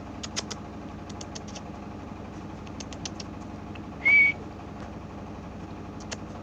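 Canary giving a single short, clear whistled call, about a quarter second long, about four seconds in. Scattered sharp clicks and a steady low hum run under it.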